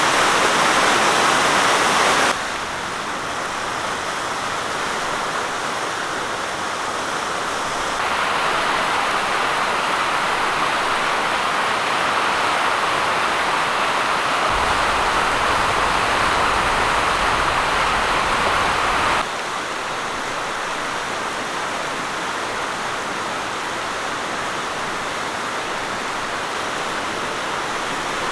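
Beck in full spate, its floodwater rushing and churning in a steady roar of noise. The loudness steps up and down abruptly a few times, and a deep rumble comes in for several seconds in the middle.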